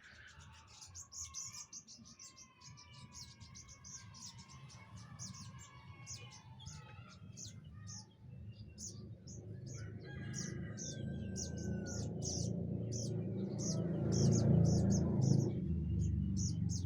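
Several birds chirping and whistling: short high chirps repeat about twice a second throughout, with lower whistled, gliding phrases in the first half. A low rumble grows louder through the second half and is loudest near the end.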